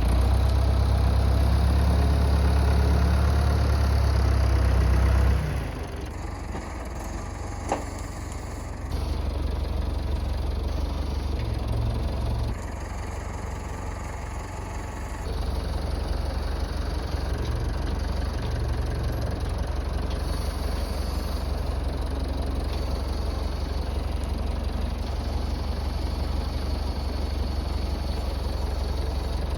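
Massey Ferguson tractor engine running with a low drone, its speed changing a few times: louder for the first five seconds, dropping back, picking up again, easing off briefly in the middle, then running steadily. A single sharp click comes a little before the middle.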